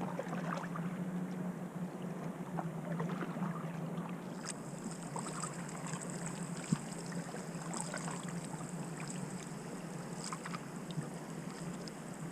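Quiet water sounds around a kayak on the water: small drips, splashes and ticks from paddling, with a single sharper knock about seven seconds in, over a steady low hum. A faint steady high-pitched whine comes in about halfway through.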